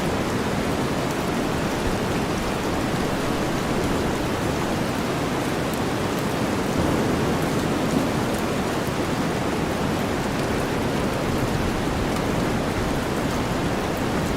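Steady rainstorm mixed with deep white noise: a continuous low-weighted hiss with faint scattered drop ticks, even throughout.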